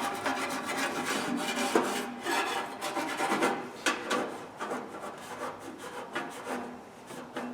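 Hand sanding an old Craftsman steel toolbox with sandpaper: irregular back-and-forth scraping strokes that grow fainter near the end.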